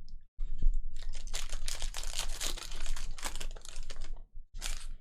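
Trading cards being flipped through and slid against each other by hand: a rapid run of crisp clicks and rustles, with a short final flick near the end.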